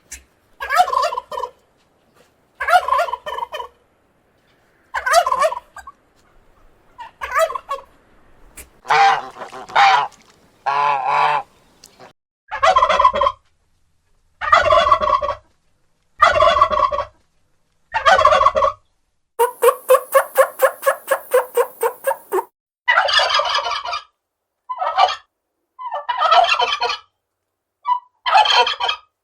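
Wild turkey gobbling, a series of repeated rapid rattling gobbles with short pauses between them, one of them held longer for about three seconds.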